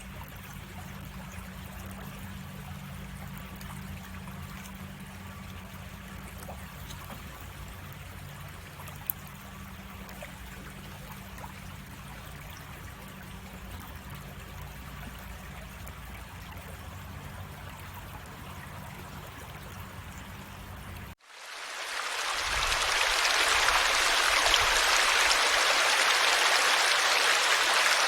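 A stream running and trickling steadily. About three-quarters of the way through it cuts to a different, much louder water sound that fades in and stays steady.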